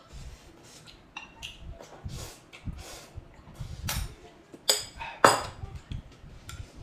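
Tableware clinking and knocking: a series of short clicks and clatters, with the two loudest, sharp ringing clinks about five seconds in.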